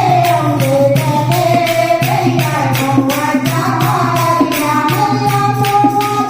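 Hindu devotional bhajan kirtan: a voice singing a bending melody over a steady drone, with jingling hand percussion keeping an even beat of about three strokes a second.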